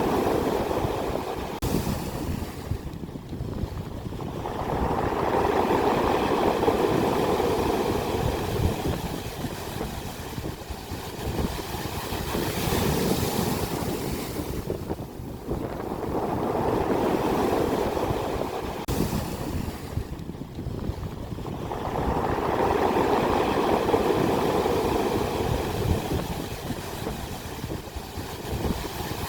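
Ocean surf breaking on the shore: a loud, continuous rush that swells and falls back in slow surges about every five to six seconds as each wave crashes and drains away.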